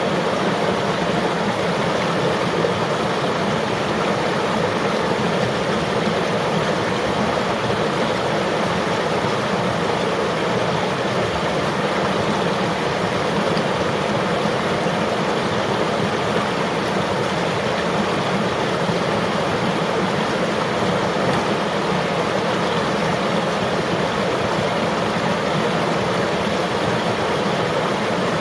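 Steady rushing of a flowing river: an even, unbroken wash of water noise.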